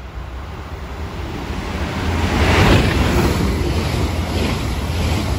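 ICE high-speed electric train running through the station at speed: the rush of wheels and air builds as it nears, peaks as the front passes about two and a half seconds in, then holds steady as the coaches go by, with a faint beat about twice a second.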